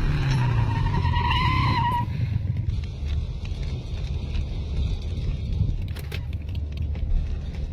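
Low vehicle engine rumble, with a higher whine rising over the first two seconds before the sound settles into a steadier, quieter rumble.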